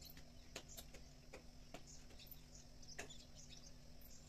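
Near silence: faint bird chirps, a few sharp light clicks spread through it, and a faint steady low hum.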